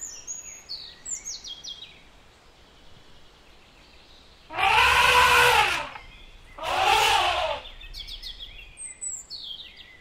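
African elephant trumpeting twice, each call about a second long, with small birds chirping before and after.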